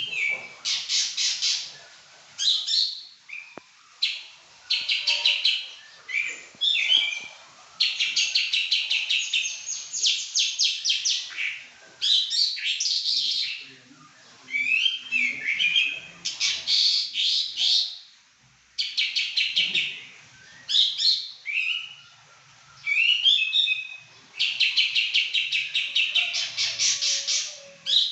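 A pakling songbird singing without pause: high-pitched phrases of rapid, evenly repeated notes about one to two seconds long, alternating with quick sweeping notes, with short breaks between phrases.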